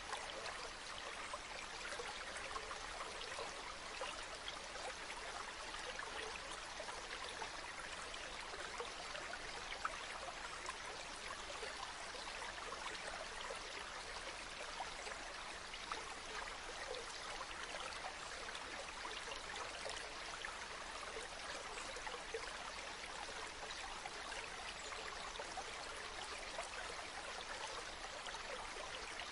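A river flowing steadily: an even, continuous rush of running water with fine trickling.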